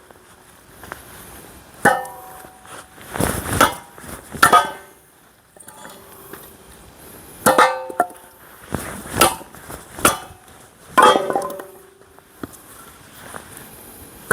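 A hammer repeatedly striking the back of an upturned axe blade set on a log to drive it into the wood. There are about eight sharp metallic blows, each with a brief ring, with a short pause partway through.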